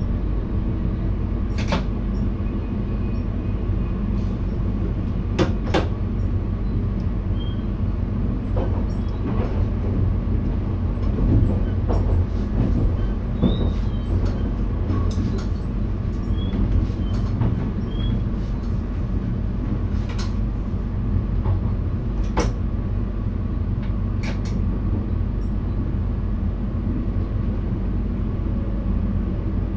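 NS VIRM double-deck electric train running, heard inside the driver's cab: a steady low rumble with scattered sharp clicks and knocks.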